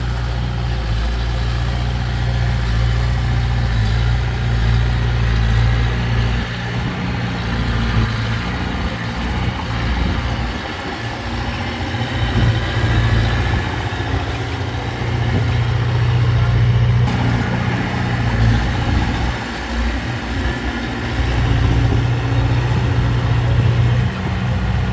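Heavy earthmoving machine's diesel engine running continuously, its pitch and load shifting every few seconds.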